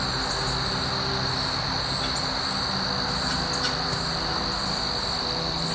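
A steady, unbroken high-pitched insect trill, with soft background music of long held low notes beneath it.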